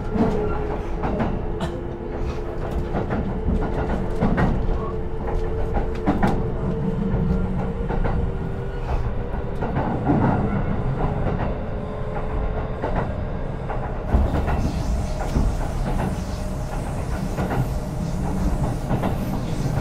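Kintetsu 5200 series electric train running between stations: a steady rumble with sharp clicks of the wheels over rail joints, and a steady motor whine that fades out about two-thirds of the way through, after which the running noise turns hissier.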